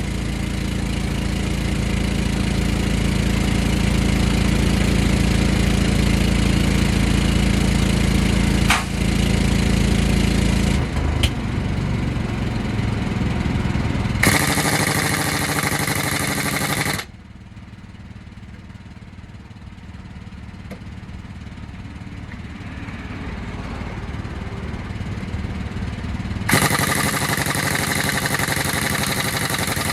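An engine running steadily, most likely a truck or service-truck engine idling. The sound changes abruptly several times: about 11 and 14 seconds in, it turns much quieter about 17 seconds in, and it gets louder and noisier again about 26 seconds in.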